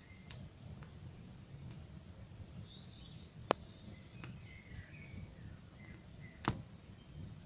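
Campfire crackling, with a few sharp pops, the loudest about halfway through and again near the end. Small birds chirp and twitter throughout.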